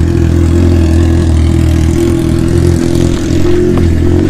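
Motorcycle engine running at a steady speed, one even engine note with no rise or fall.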